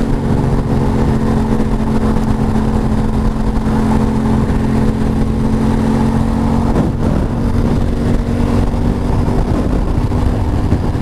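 Motorcycle engine running at a steady cruise, with wind rumble across the helmet microphone; the engine note dips briefly about seven seconds in, then settles again.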